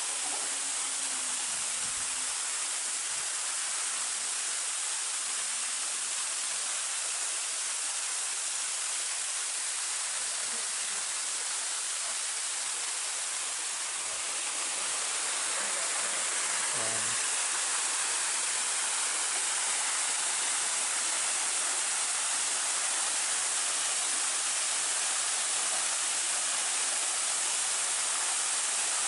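Waterfall rushing: a steady, dense hiss of falling water, slightly louder from about halfway through.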